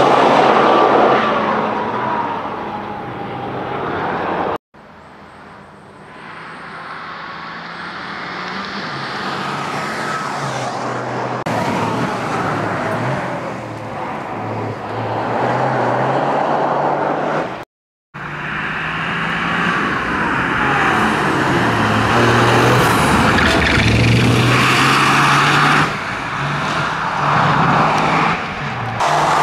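Toyota GR Yaris's turbocharged three-cylinder engine revving hard and falling back again and again as the car accelerates, brakes and turns through a tight course. It passes in three stretches, getting louder and fainter, with the sound cutting out abruptly twice.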